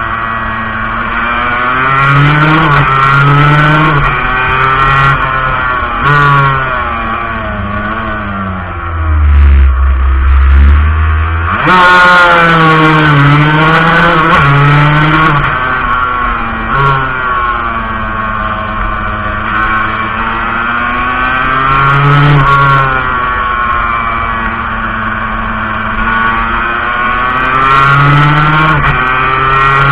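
Montesa Cappra 125's two-stroke single-cylinder engine heard on board, its pitch rising and falling repeatedly as the throttle is opened and closed. Around ten seconds in the engine note thins under a deep rumble, then comes back loud suddenly.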